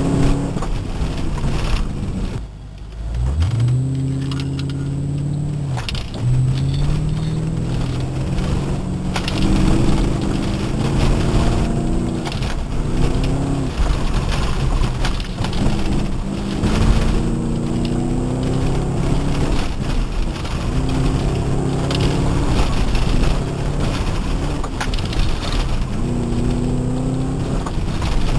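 A 1997 Ford Thunderbird's engine, heard from inside the cabin on an autocross run. Its revs climb and fall again and again, with a brief drop about two and a half seconds in before it pulls up again.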